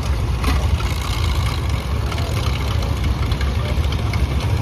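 Antique farm tractor engine idling steadily, with a short click about half a second in.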